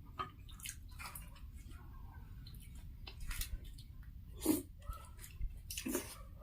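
Quiet eating sounds: soft chewing and wet mouth smacks with scattered small clicks, a couple of them louder, about four and a half and six seconds in.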